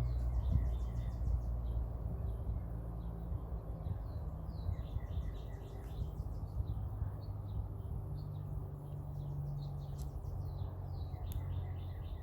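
Small songbirds chirping in quick runs of repeated high notes, several phrases in turn, over a steady low hum.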